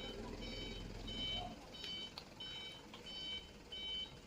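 A dump truck's reversing alarm beeping at an even pace, about three beeps every two seconds, as the truck backs up, with its diesel engine running low underneath.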